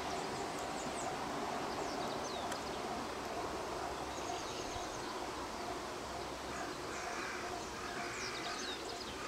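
Birds chirping, with several short, quick down-sliding high notes scattered through, over a steady outdoor background hiss and a faint steady hum.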